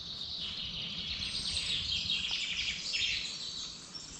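Songbirds twittering: a quick, busy run of short high chirps over a faint low background hiss.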